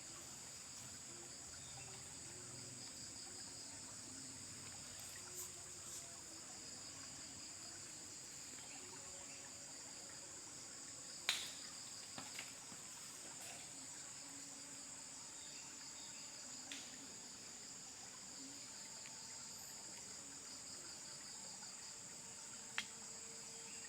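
Faint, steady evening insect chorus, a continuous high whirr with a pulsing texture. A sharp click sounds about halfway through, two lighter ones follow soon after, and another comes near the end.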